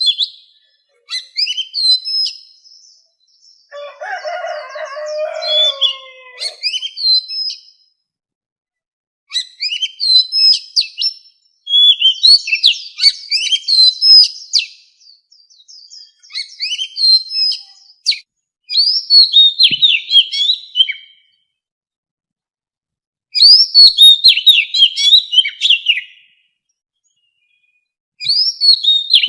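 Oriental magpie-robin singing in a wild-type song: phrases of rapid, varied whistled notes sliding up and down, separated by short pauses of one to two seconds. About four seconds in, a lower-pitched passage lasting a couple of seconds runs under the whistles.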